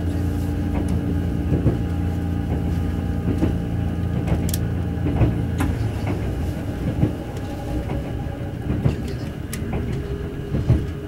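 Kintetsu Urban Liner Plus electric limited express train running at speed, heard from inside the passenger car: a steady low running hum with scattered clicks of the wheels over rail joints. The hum's low tones ease off about halfway through.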